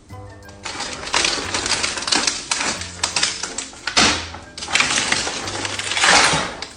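Dense, rapid clattering and scratching noise in quick uneven strokes. It starts about half a second in and is loudest near the end, over background music with a low bass line.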